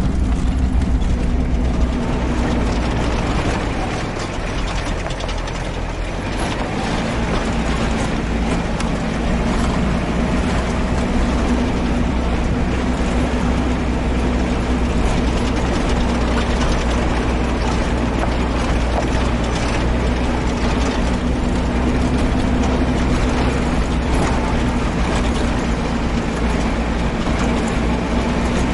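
4x4 jeep driving with its engine running steadily under constant rattling and clattering from the vehicle body.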